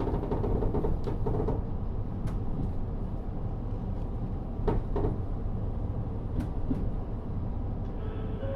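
Cabin sound of a KiHa 40 series diesel railcar under way: a steady low rumble from its N-DMF13HZB diesel engine and running gear, with a couple of sharp knocks about five seconds in and lighter rattles of interior fittings.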